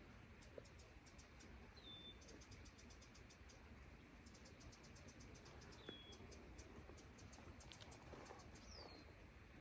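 Faint calls of small birds: runs of rapid high ticks, about six a second, and three short high whistled notes that drop in pitch, spread a few seconds apart.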